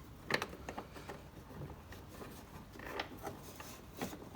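Fingers fumbling behind a tractor's instrument cluster, trying to line up and thread the tachometer cable's plastic nut: light rubbing and scraping with a few sharp clicks and taps, the loudest about a third of a second in.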